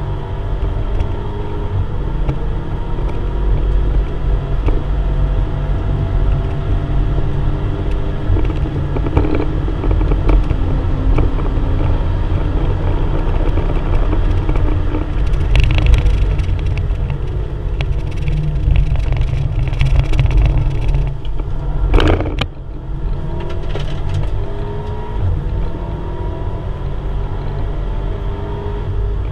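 Volkswagen Golf R Mk7's turbocharged 2.0-litre four-cylinder engine heard from inside the cabin, under hard acceleration on track: its pitch climbs and drops back through several upshifts over a constant rumble of road and wind noise. Past the middle the car brakes hard for a chicane, with a sharp knock about twenty-two seconds in, then it pulls hard again.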